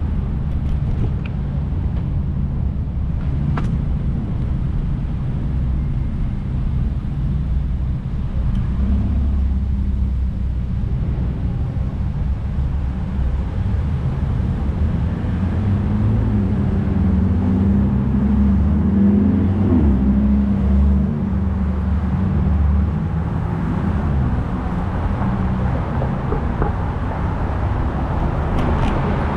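Rush-hour street traffic: cars driving by with a steady low rumble, and a vehicle engine's hum standing out for several seconds in the middle.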